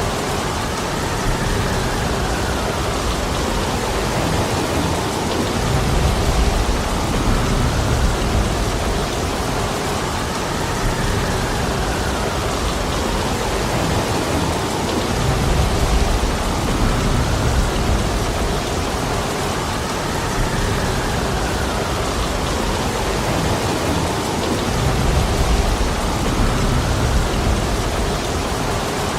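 Heavy rain falling steadily, with a low rumble that swells up about every nine or ten seconds.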